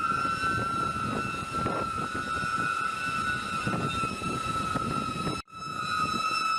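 Vehicle noise under a long, steady high-pitched tone with overtones, like a horn or a squeal. The sound drops out abruptly about five and a half seconds in, then the tone returns.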